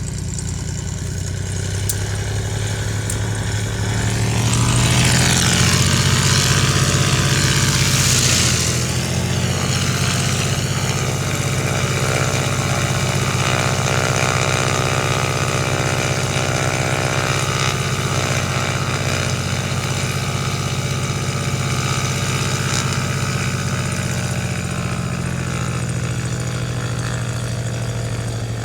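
An engine running steadily at a constant pitch, with a louder hissing swell about four to nine seconds in.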